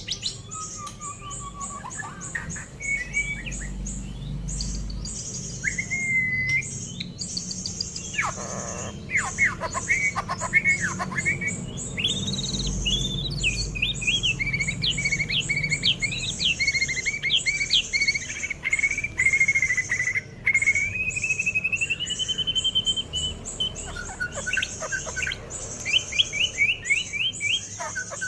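Young white-rumped shama, about six months old, singing: a varied run of whistled notes, sliding phrases and quick trills over a rapid, high-pitched chatter that keeps up most of the time.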